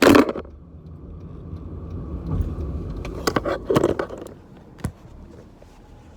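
Low steady rumble of a car, with a brief cluster of clicks and rattles about three to four seconds in.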